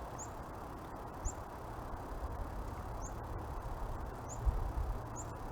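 Black-capped chickadees giving short, high, thin chirps, one about every second, five times, over low rumbling noise with a few soft knocks.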